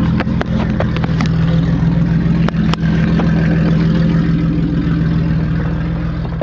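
Mercedes-Benz engine idling steadily, with several sharp clicks in the first three seconds.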